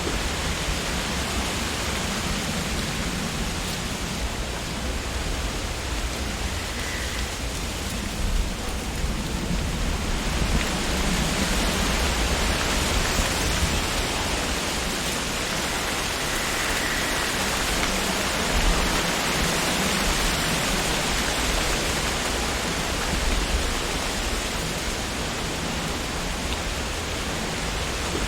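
Wind blowing through tree leaves, a steady rustling hiss that grows stronger and brighter in a gust about ten seconds in.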